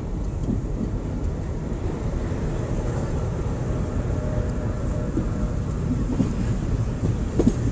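Passenger train moving slowly, heard from aboard at an open door or window: a steady low rumble of the wheels on the track, with a couple of sharp wheel knocks near the end.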